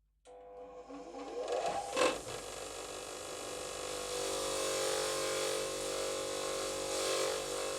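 A small electric power tool switching on, its pitch rising as it spins up, with a sharp click about two seconds in. It then runs steadily with a hum and a hiss.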